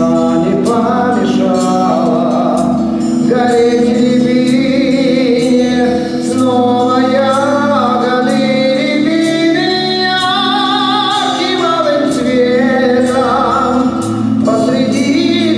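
Live pop song from a vocal-instrumental ensemble: long sung notes with vibrato over band accompaniment.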